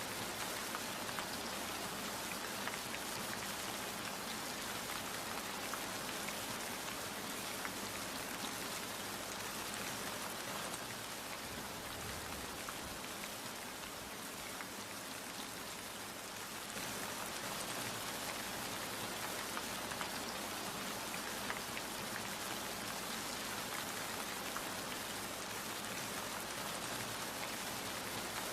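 Steady rain falling, a continuous hiss dotted with the small ticks of single drops hitting a surface. It eases slightly for a few seconds midway.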